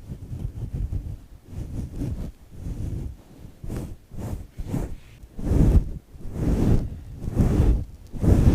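Foam being squished and rubbed close to the microphone in irregular bursts, about one or two a second, the louder ones in the second half.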